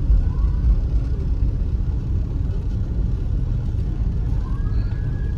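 A car driving in slow traffic, a low steady rumble of engine and road noise heard from inside the vehicle, with two faint rising whoops of a distant siren, one just after the start and one near the end.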